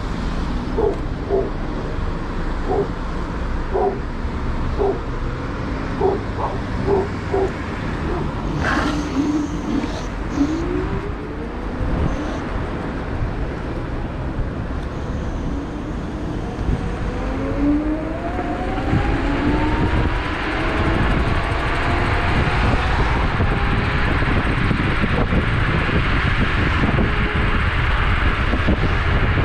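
Electric scooter hub motors whining, the pitch rising as they accelerate, over a heavy wind rumble on the microphone. A dog barks repeatedly in the first several seconds.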